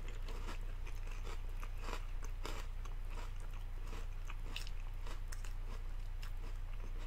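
A person chewing a mouthful of marshmallow oat cereal in milk, close to the microphone, with irregular crunches, over a steady low hum.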